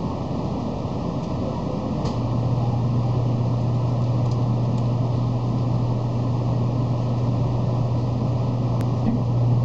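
Steady cabin noise inside a 700-series Shinkansen car, with a low, even hum that sets in about two seconds in and holds steady.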